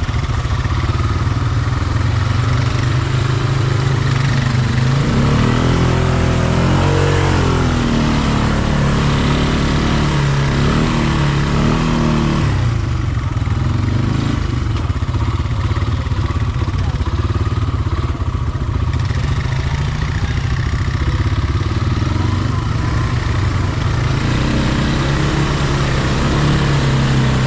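Off-road vehicle engine running steadily close by, revved up and down several times.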